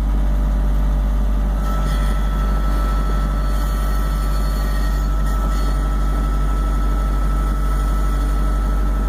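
Tractor engine running steadily, heard from inside the enclosed cab as a constant low drone. A faint high whine joins about two seconds in.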